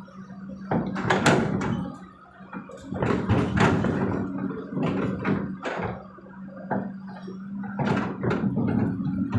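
Kobelco SK200 excavator's engine running steadily under a series of heavy knocks and clatters, as the bucket drops earth and rock into a dump truck's steel bed.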